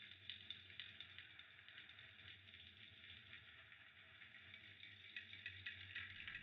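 Faint crackling of a fireplace fire: small irregular pops and snaps over a soft steady hiss.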